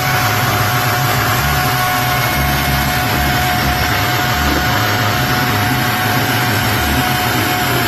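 Cordless brushless electric chainsaw running at a steady speed, its motor and chain giving a steady whine over a rushing noise.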